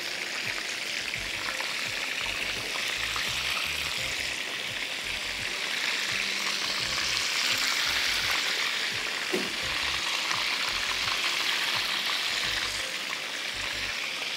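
Minced-meat chapli kababs shallow-frying in hot oil in a pan: a steady sizzle while they are turned with a spatula and fork. One light knock comes about nine seconds in.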